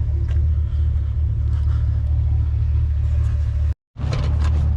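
Truck engine running with a steady low rumble; the sound cuts out for a split second near the end, then the same rumble carries on.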